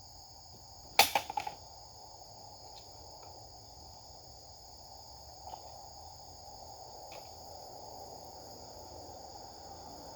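A Japanese sword's cut hitting its target: one sharp crack about a second in, with a brief rattle after it, over a steady high insect drone.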